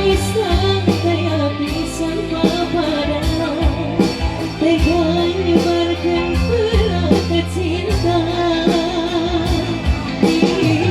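Live band music: a wavering lead melody over steady bass notes and a regular drum beat.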